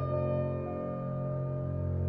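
Slow, calm ambient background music: a chord held over a steady low drone, ringing on without a new note struck.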